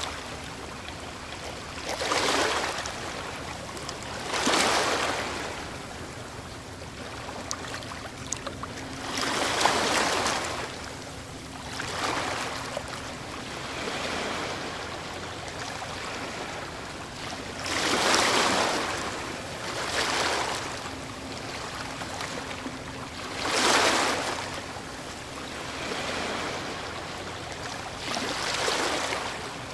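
Ocean waves breaking, about eight surges of rushing surf a few seconds apart, each swelling and then washing away.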